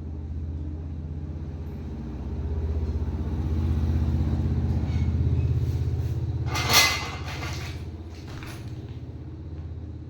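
Low, steady rumble of a running motor that swells in the middle and then eases off, with one short loud noise about two-thirds of the way in and a fainter one soon after.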